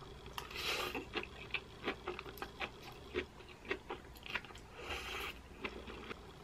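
A person eating a mouthful of pesto-coated zucchini noodles close to the microphone: a slurp as the noodles go in about half a second in, then chewing with soft wet clicks and smacks. There is a second brief rush of air about five seconds in. The lightly sautéed zucchini noodles are still crisp.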